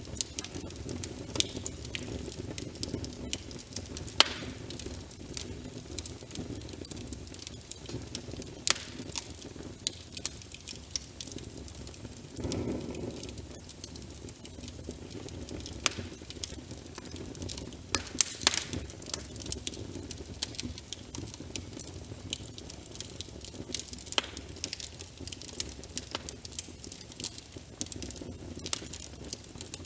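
Wood fire crackling with irregular sharp pops and snaps over a steady bed of rain patter. A brief low swell comes about halfway through.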